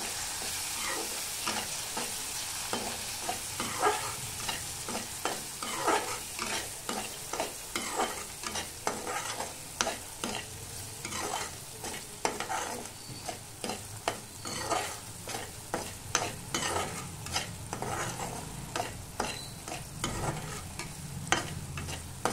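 Tomato masala sizzling in hot oil in a kadhai while a spatula stirs and scrapes the pan in frequent, irregular strokes, as the tomatoes are fried down until soft.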